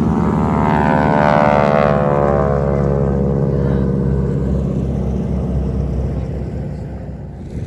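Propeller airplane flying past, its engine note falling in pitch as it goes by and slowly fading away.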